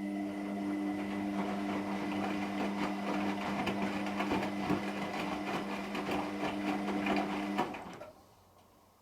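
Hotpoint Extra WMXTF742K washing machine running, its motor humming steadily with a rattling, churning noise over it, then stopping about eight seconds in.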